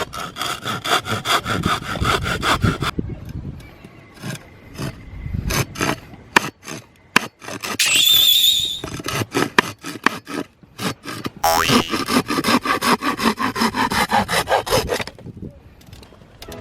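Hand saw cutting firewood in quick, even back-and-forth strokes, in two spells with a pause of scattered knocks between them.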